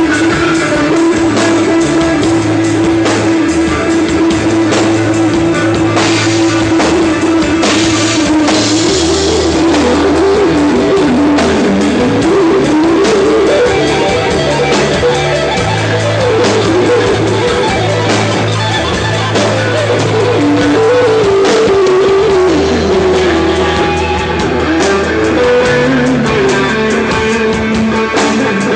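Rock band playing a passage without vocals: a guitar melody over steady, changing bass notes and drums.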